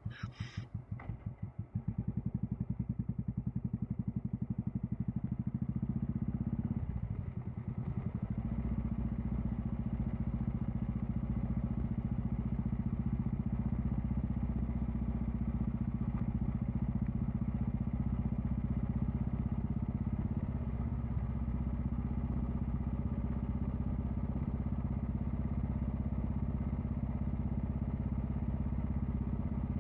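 Royal Enfield Classic 350's air-cooled single-cylinder engine, heard through a Red Rooster aftermarket exhaust. It starts as slow, separate pulses at low revs, then settles into a steady running note. The level dips briefly about seven seconds in, then the note holds steady.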